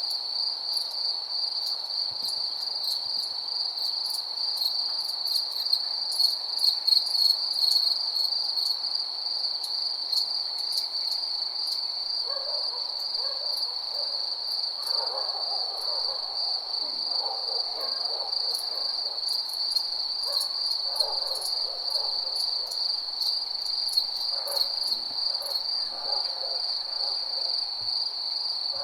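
Steady night chorus of crickets, a continuous high pulsing chirr with scattered sharp ticks above it. From about halfway in, a second animal calls on and off at a much lower pitch.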